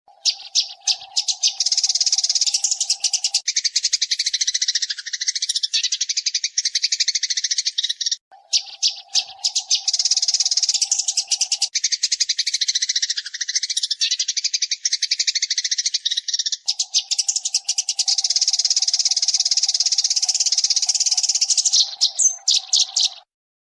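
Eurasian tree sparrow chattering: a fast, dense run of chirps in three long bouts, with short breaks about a third and two thirds of the way through. A steady low hum sits under parts of each bout.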